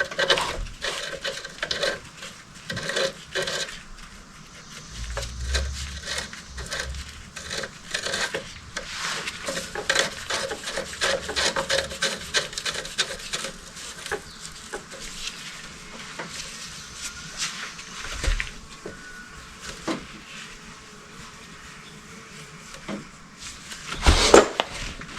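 Hand tools and metal parts being handled during engine assembly: irregular clicks, taps and clinks with some rubbing, and a louder knock near the end.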